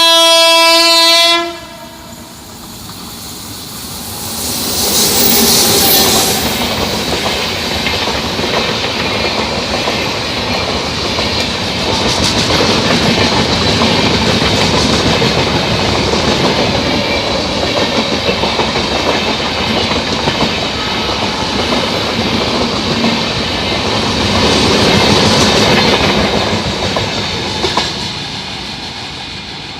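Express passenger train's horn sounds one loud blast of about a second and a half. The train then rushes past with steady wheel clatter over the rail joints, swelling twice and fading near the end.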